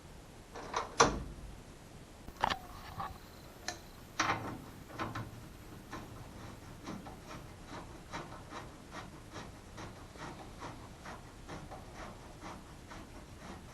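Hand tools working on the car: a few knocks and clanks, then a hand ratchet wrench clicking evenly, about two clicks a second.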